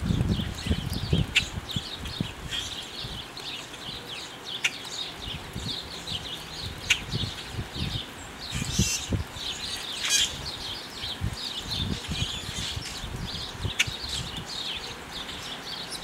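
Small birds chirping in a dense, continuous chatter at a backyard seed feeder, with a sharp click every few seconds and a few low thumps.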